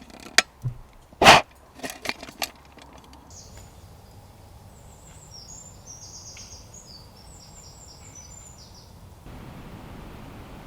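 A few sharp knocks and clatters, the loudest just over a second in, as the meat is put onto a plate. Then small birds chirping in woodland for about six seconds, short high notes repeated in quick runs, stopping suddenly.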